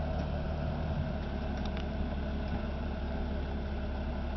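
Heavy earth-moving machine's engine idling steadily with a low hum.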